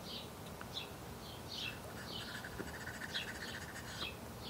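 A bird chirping over and over, about two short high chirps a second, with a buzzy trill joining in around the middle.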